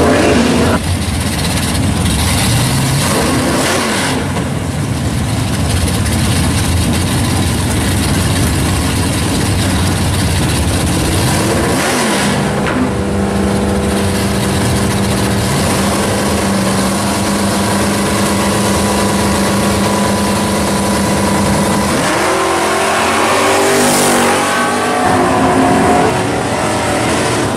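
Drag-racing cars' engines running loud at the starting line, idling rough and revving up several times. Near the end an engine revs up hard again.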